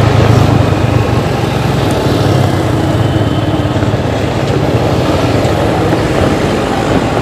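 A Luragung intercity bus's exhaust (knalpot) running with a loud, steady low note.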